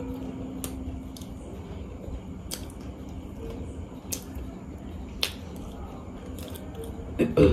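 Close-miked eating of a samosa: smacking chewing with sharp wet mouth clicks every second or two, and the crisp pastry being broken apart by hand. A louder brief sound comes near the end.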